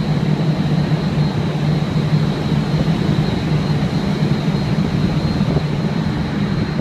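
Steady low mechanical drone with a thin high whine over it and a rush of air, from a cruise ship's machinery heard on the open upper deck.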